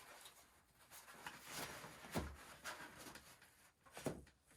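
Faint handling sounds as the bassinet's clips are fastened onto the Pack 'n Play frame: a few soft knocks, clearest about two seconds in and again near the end, with light rustling.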